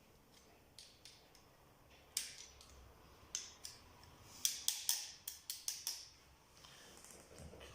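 Sharp, light metallic clicks and taps as the end cover of a small power-tool electric motor is fitted onto its housing: a few scattered ones, then a quick run of about eight near the middle.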